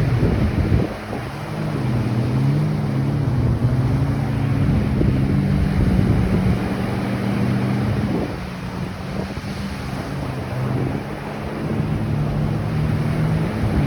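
Ocean surf washing on a beach, with wind buffeting the microphone. Under it runs a low, steady hum that wavers slightly in pitch.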